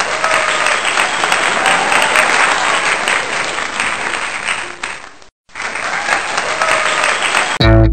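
Crowd applause and cheering that fades and breaks off about five seconds in, then starts again half a second later. Just before the end, loud electric guitar and bass notes come in.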